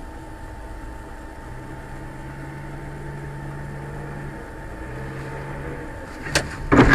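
Steady engine and road noise inside a moving car, with a faint hum and tone. About six seconds in there is a sharp knock, then a loud crash near the end, the impact of a collision.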